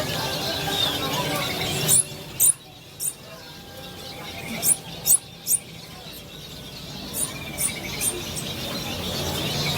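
Many caged songbirds chirping together in a dense din. About two seconds in it drops to a quieter stretch of sharp, very high chirps in groups of two or three, and the din builds back up near the end.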